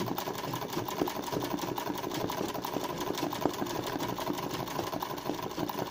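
Domestic 'kara makine' sewing machine running steadily for free-motion drawn-thread embroidery, its needle stitching in a fast, even clatter.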